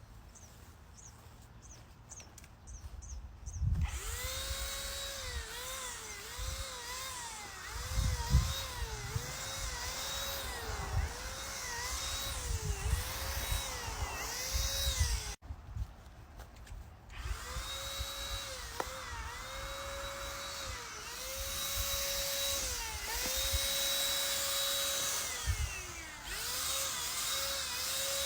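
Cordless handheld paint sprayer running as stain is sprayed: a steady motor whine whose pitch dips and recovers about once a second. It starts a few seconds in, stops about halfway through, and starts again about two seconds later.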